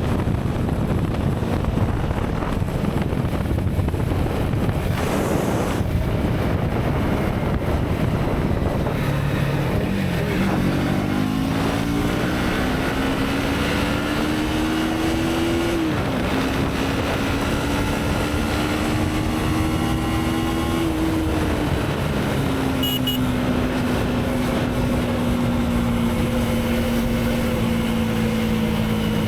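Motorcycle engine accelerating through the gears under heavy wind noise: the engine pitch climbs, drops sharply at two gear changes, then holds and slowly eases off.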